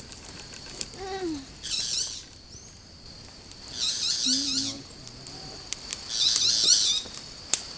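Steady high insect trill with three bursts of rapid high-pitched chirping, about two, four and six seconds in.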